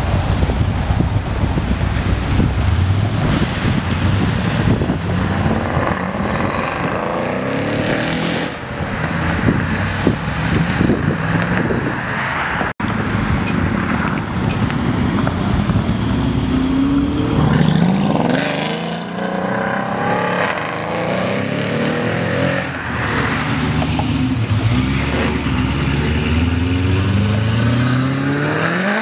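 Performance car engines revving and accelerating hard, the engine note climbing repeatedly as the cars pull away and shift up, over a constant rumble of traffic and wind. There is a brief break in the sound about halfway through.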